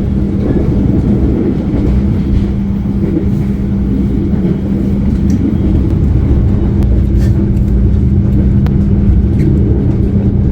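Passenger train running, heard from inside the carriage: a loud, steady low rumble with a constant hum and a few faint ticks.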